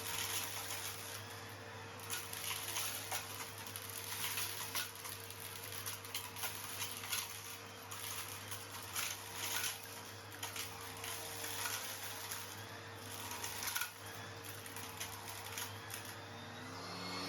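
Henry vacuum cleaner running steadily with a low motor hum while it sucks up small stones, which clink and rattle through the hose and tube at irregular moments.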